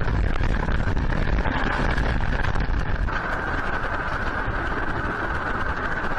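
Indoor earthquake shaking: a heavy low rumble with constant rattling and clicking of loose objects. The rumble eases about three seconds in while the rattling goes on.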